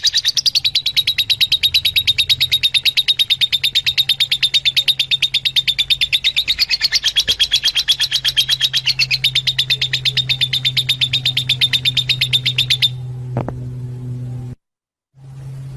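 Fischer's lovebird calling: a fast, very even run of shrill chirps, several a second, which stops abruptly after about thirteen seconds. A low steady hum runs underneath and drops out briefly near the end.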